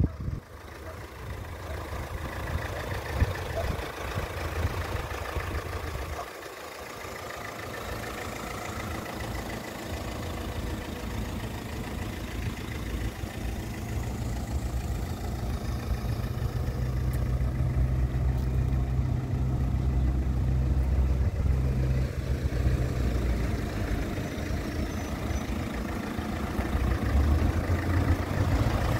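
A car engine idling steadily, a low rumble that grows louder through the second half.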